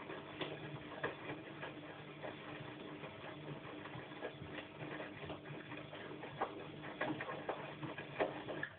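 Bosch washing machine in its wash cycle: a steady motor hum with irregular clicks and knocks from the turning drum and tumbling load. The drum sound cuts off suddenly at the very end as the drum pauses in its wash rhythm.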